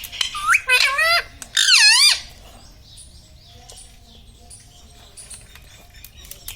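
Indian ringneck parrot giving two loud calls that bend up and down in pitch within the first two seconds, then falling quiet apart from a few faint ticks.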